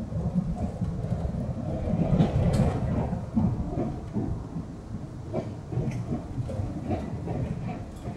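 Running sound of a Puyuma Express TEMU2000 tilting electric train at speed: a continuous rumble of wheels on rail, with irregular knocks and clicks from the track.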